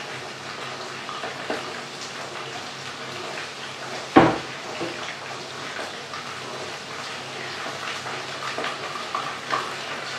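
Chicken pieces deep-frying in hot oil in a pot, a steady sizzle with small crackles, as metal tongs turn the pieces. One sharp knock about four seconds in.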